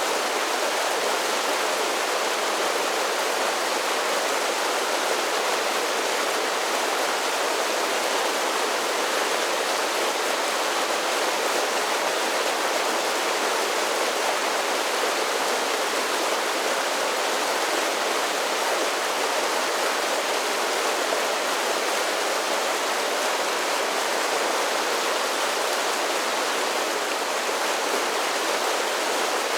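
Mountain creek cascading over a series of small waterfalls: a steady, even rush of water.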